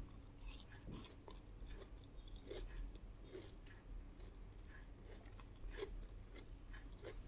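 A person chewing a mouthful of food close to the microphone: faint, irregular wet smacks and clicks.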